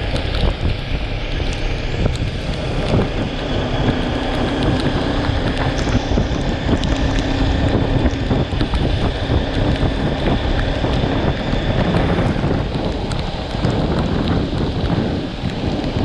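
Wind rushing and buffeting over the microphone of a moving motorcycle, a loud steady rush, with the engine's drone faintly underneath.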